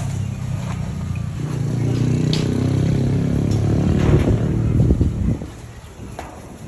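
A small engine running close by, its steady drone growing louder, then cutting off abruptly about five seconds in, with a few light clicks over it.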